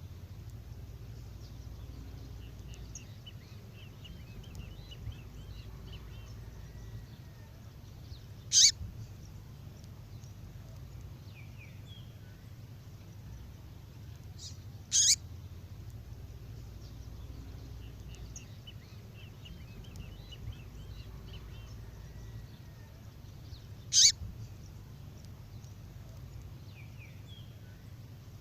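Female songbird call: three short, sharp calls several seconds apart, with faint twittering between them, over a steady low hum.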